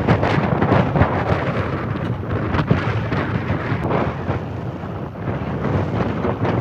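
Excavator digging rocks: engine running under load while the bucket scrapes and rocks clatter, a dense rumble studded with many short knocks.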